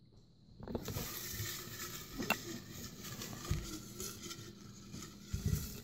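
A hand rummaging through folded paper slips in a glass jar: rustling that starts about a second in, with a sharp click and two dull knocks later on.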